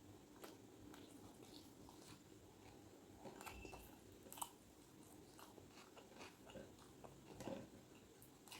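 A person chewing and biting food close to the microphone, faint, with scattered short mouth clicks and one sharper crunch about four and a half seconds in.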